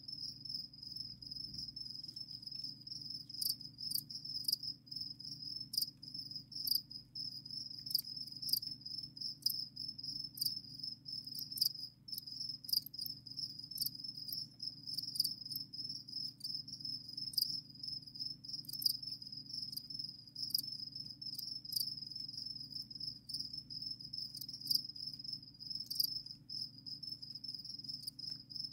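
Crickets chirping without pause, a steady high-pitched trill, with scattered short sharp ticks over it and a faint low hum underneath.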